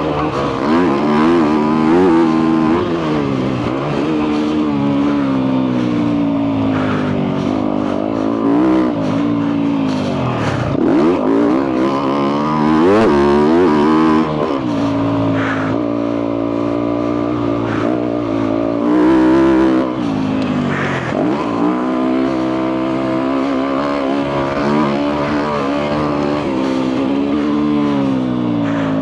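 2022 Yamaha YZ250F's single-cylinder four-stroke engine, breathing through a full FMF exhaust, revving up and down again and again as the bike is ridden hard. Its pitch climbs under throttle and drops off through shifts and corners, with a few deeper drops along the way.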